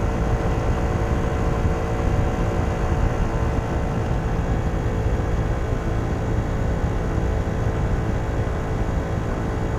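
Kymco Downtown 125i scooter's single-cylinder four-stroke engine running steadily through its stock exhaust while riding, with a low rumble of wind and road noise underneath.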